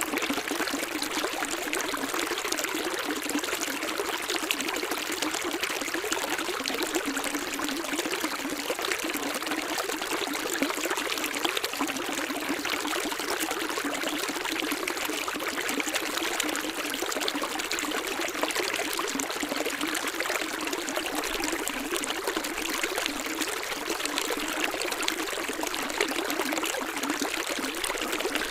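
Running stream water flowing steadily: an even splashing rush with hardly any deep rumble.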